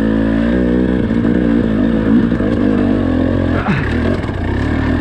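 Dirt bike engine revving up and down under load, its pitch wavering, with a brief drop in the engine note and some clatter about three and a half seconds in.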